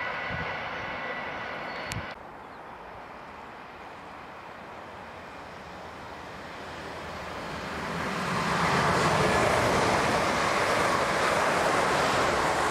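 A South Western Railway Siemens Desiro electric multiple unit approaching and passing close by at speed: the rush of wheels on rail builds from about six seconds in and stays loud as the carriages go past.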